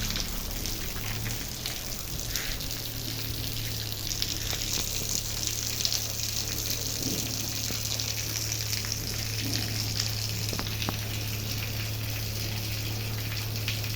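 Rain falling steadily, a continuous even hiss, with a steady low hum underneath.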